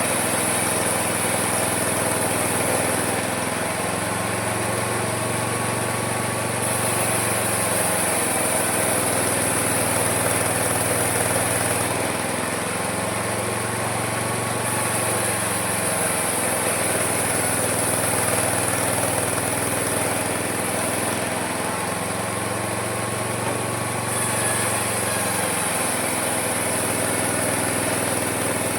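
Small engine of a homemade mini sawmill running steadily and loud, its pitch dipping and coming back up about every ten seconds, with a high hiss that comes and goes.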